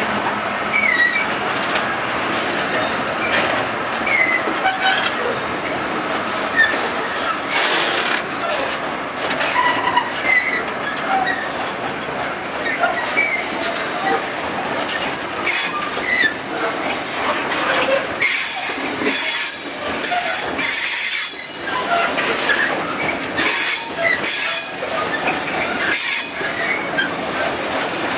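Long freight train of covered hopper wagons rolling past close by on a curve: a steady rumble of wheels on rail, with many short high squeals from the wheels on the curve and irregular clicks and clatter as the wheels pass over rail joints.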